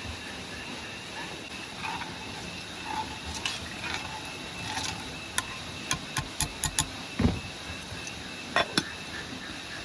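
A run of short, sharp clicks and knocks, like hard objects handled against each other, about halfway through and twice more near the end, over a steady background hiss.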